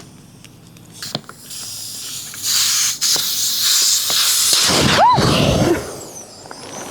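Air rushing out of an inflatable tent's unscrewed valve in a loud hiss, more powerful than expected. It cuts off after about three seconds and gives way to a muffled low rumble with a short squeak.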